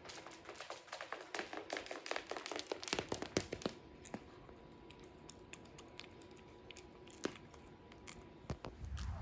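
Paper or plastic gift packaging crinkling as it is handled: a dense run of crackles for about three seconds, then scattered single clicks.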